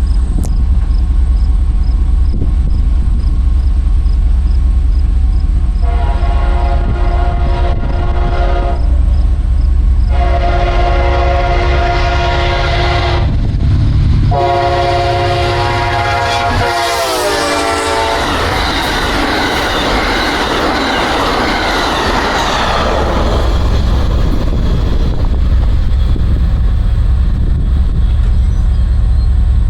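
GE P42DC diesel locomotive's air horn sounding three long blasts, the last one dropping in pitch as the locomotive passes, followed by the rush of the train going by. A heavy low rumble runs underneath throughout.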